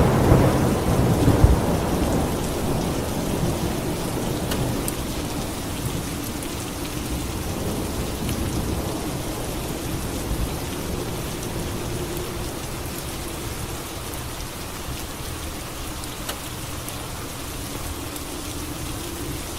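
A thunderclap near the start, rumbling away over several seconds, then steady rain falling.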